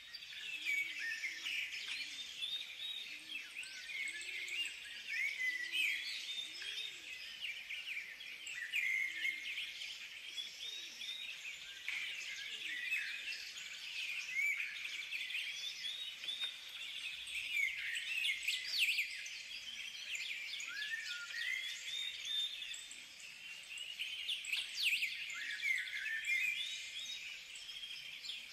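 Many birds chirping and singing at once, a steady chorus of short, overlapping high calls, with a low call repeated about every half second in the first several seconds.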